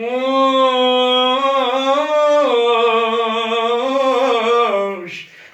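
A man's voice singing one long held note of Iraqi Husseini eulogy chant, unaccompanied, with melismatic turns in the middle before it fades.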